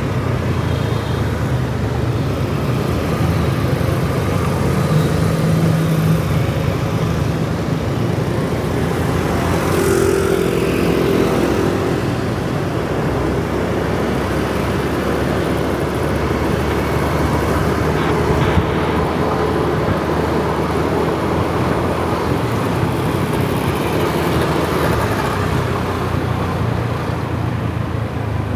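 A Kawasaki ZX-4R's inline-four engine running steadily as the motorcycle rides through city traffic, mixed with wind noise and the hum of other motorbikes around it. The engine note shifts a few times along the way.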